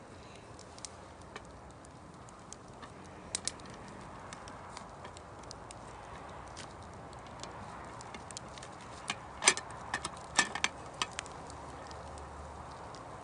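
Wood campfire crackling: irregular sharp pops and snaps over a soft steady hiss, with a quick cluster of louder pops about two-thirds of the way through.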